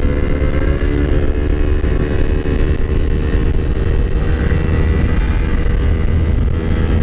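Yamaha R25's parallel-twin engine with an aftermarket exhaust, running at a steady speed under way, with heavy low wind rumble on the microphone.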